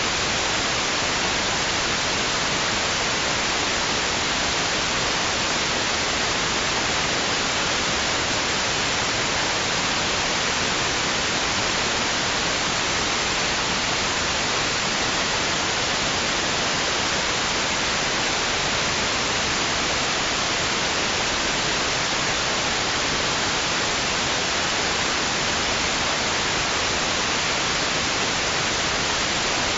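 Steady white noise: an even, unbroken hiss, brightest in the treble, with no rise and fall.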